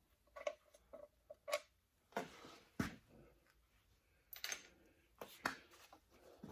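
Scattered light clicks and clinks of bolts and hand tools being handled and set down, with a few sharper knocks about two, three and five and a half seconds in.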